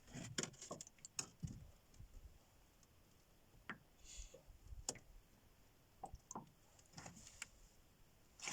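Faint, scattered clicks and light knocks at irregular intervals, a dozen or so in all.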